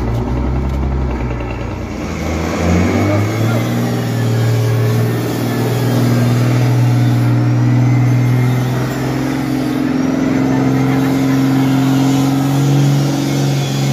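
Heavy diesel truck engine revving up about two seconds in and then held at high revs under heavy load, as a truck strains to climb a steep ship's loading ramp.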